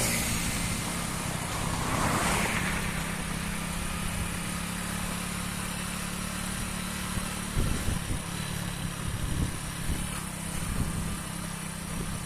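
Hero Splendor motorcycle's single-cylinder engine running with a steady hum, a broad whoosh about two seconds in, and a few irregular knocks later on.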